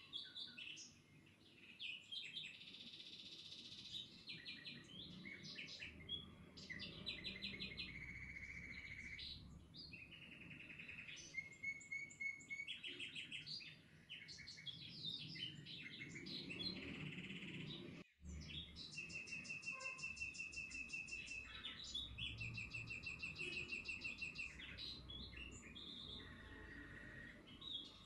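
Small songbirds chirping and singing, with many overlapping rapid trills and short whistled phrases, briefly cut off about eighteen seconds in.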